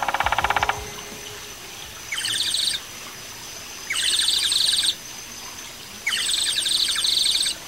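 Birdsong: a loud buzzy pulsed call that stops under a second in, then three rapid high trills about two seconds apart, each about a second long, over a faint steady high tone.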